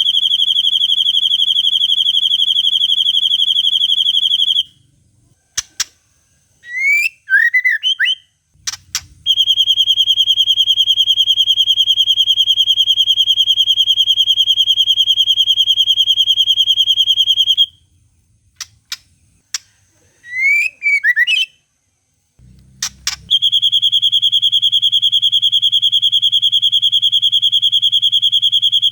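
White-rumped shama (murai batu) singing long, very even, rapid buzzing trills in the style of the cililin, three of them. Between the trills come short bursts of sharp clicks and quick rising chirps.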